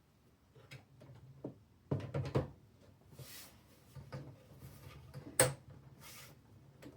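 Small hard objects being handled on a work surface: scattered light clicks and knocks, a quick cluster about two seconds in and a sharper click about five and a half seconds in, with two brief rustling swishes between.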